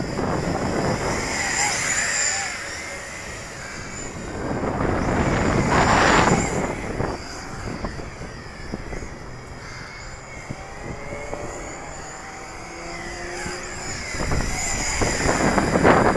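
Yizhan Tarantula X6 six-rotor drone's motors and propellers whining, the pitch gliding up and down as the throttle changes, in strong gusty wind. Two loud rushing swells, about six seconds in and again near the end.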